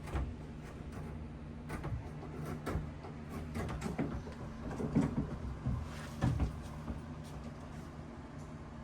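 A door being handled and set against its frame: scattered knocks and clatter, with the sharpest knocks in the middle. A steady low hum runs underneath.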